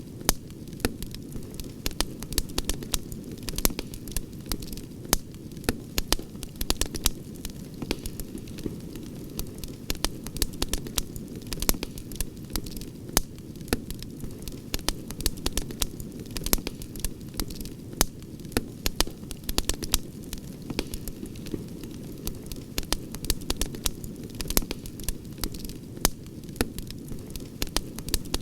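Campfire crackling: a dense, irregular stream of sharp pops and snaps over a steady low rush of flame.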